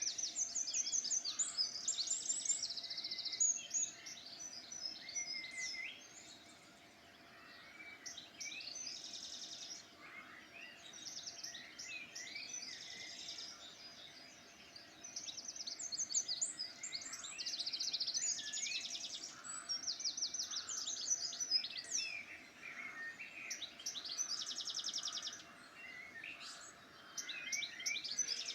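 Several songbirds singing at once: fast high trills, rapid repeated notes and short whistled phrases overlapping in bursts, with brief lulls between them.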